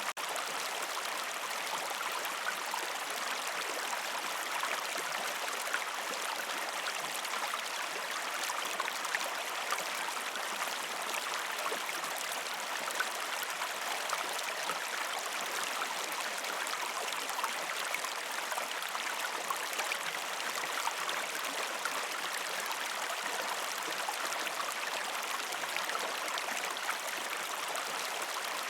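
A shallow river stream flowing steadily over rocks, a constant rushing and splashing of water with a light sparkle of small splashes and no deep rumble.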